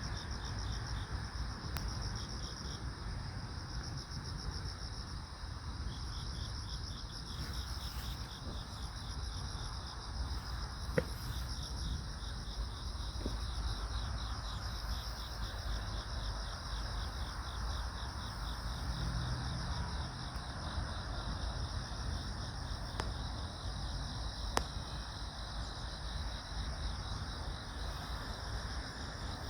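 Crickets trilling steadily, several at different high pitches, over a low steady rumble, with a single sharp click about eleven seconds in.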